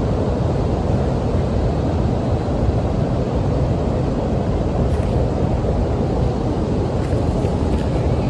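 Steady low rumbling outdoor noise, with a few faint clicks about five seconds in and near the end.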